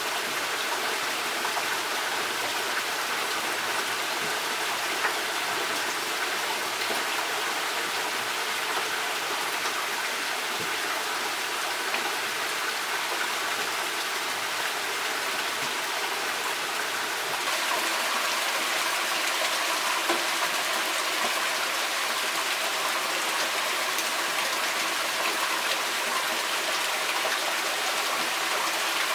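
Running water of a forest stream: a steady rush that gets a little louder and brighter about seventeen seconds in.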